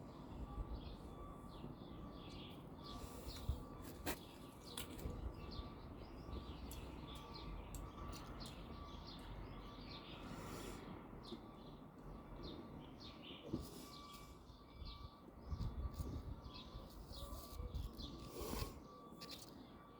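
Small birds chirping and twittering, many short high calls throughout, over a low steady background rumble.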